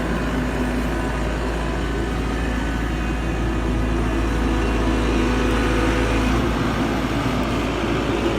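Skid steer loader's engine running steadily as it is driven, a steady hum over a deep rumble; the lowest rumble eases about six and a half seconds in.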